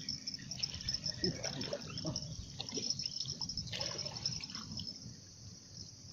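Small splashes and trickling water at the water's edge, with a steady high chirring of insects behind.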